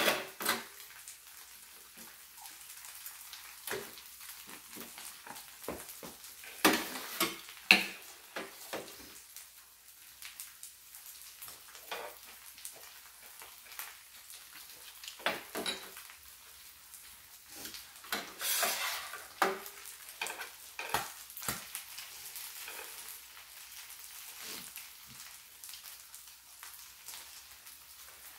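Pajeon frying on an electric griddle, a steady high sizzle, with chopsticks and dishes clicking and knocking now and then.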